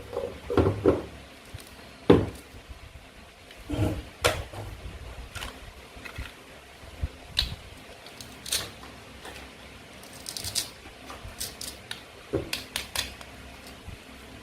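Irregular clicks and knocks of plastic play-food toys being cut with a toy knife and handled, with louder knocks about two, four and twelve and a half seconds in.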